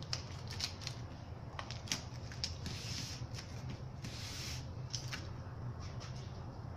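Two short bursts of spray-paint can hiss, about three and four seconds in, among scattered clicks and taps, over a low steady hum.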